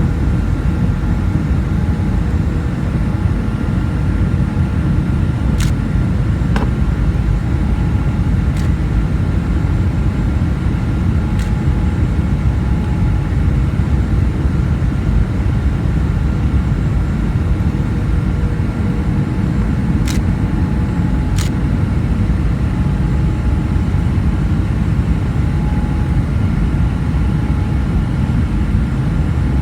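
Steady, loud low rumble of a Boeing 737-400's engines and airflow, with faint steady tones above it and a few short clicks.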